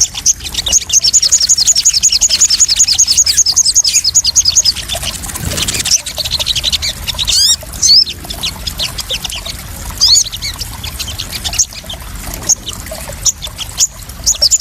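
Sogon sunbird calling in rapid high chirping trills of about ten notes a second, then scattered single chirps, over trickling, splashing water. A brief pouring splash comes about five seconds in.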